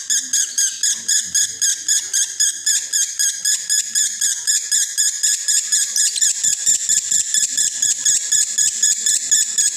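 Male lovebird in breeding condition chattering in one long unbroken 'konslet' song: shrill, rapidly repeated notes, about five a second, going on without a break.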